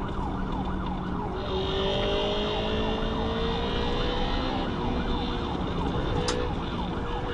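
Police car siren on a fast yelp, rising sweeps repeating about three times a second, over steady vehicle engine and road noise.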